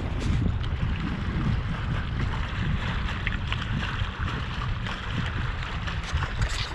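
Wind buffeting the microphone in an uneven low rumble, over the steady rush and splash of water along a sailboat's hull while under way.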